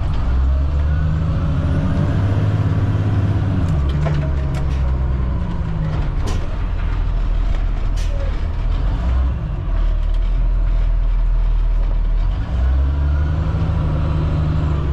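Cat C7 diesel engine of a Blue Bird All American FE bus running under way, its pitch rising and falling several times as the bus speeds up and slows. A few short sharp sounds stand out over it.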